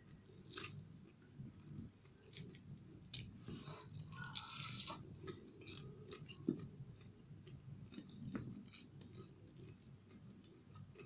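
Close-up chewing and crunching of crispy fried fish, with scattered small crackles as the fried skin and flesh are pulled apart by hand.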